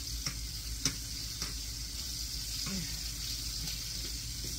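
Breaded chicken gizzards frying in olive oil in a skillet, a steady sizzle, with three light clicks of a fork against the pan in the first second and a half as the pieces are turned.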